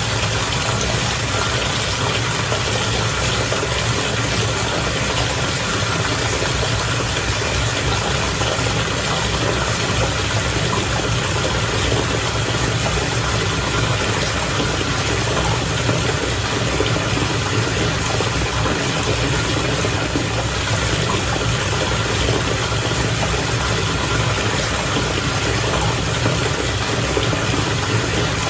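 Bath water bubbling and churning steadily, over the even low hum of a bubble-bath pump motor.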